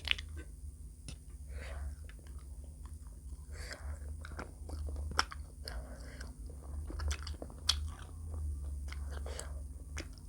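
Close-up eating sounds: chewing and biting of food, with many sharp wet clicks and a few crunches.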